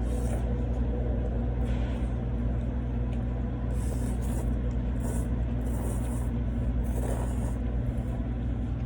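Steady low rumble of background machinery hum in a room, with brief soft hissy scrapes now and then.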